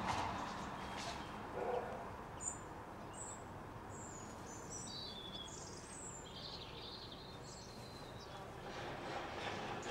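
Small bird chirping a quick series of short, high notes, some falling in pitch, for several seconds, over a faint steady outdoor hiss. Two brief lower-pitched sounds come in the first two seconds.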